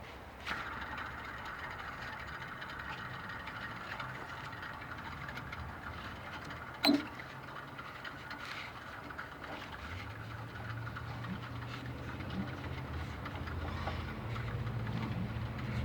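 Small single-cylinder gas engine of a 420cc reversible vibratory plate compactor running with a steady low hum, growing louder from about ten seconds in. A single sharp click sounds near the middle.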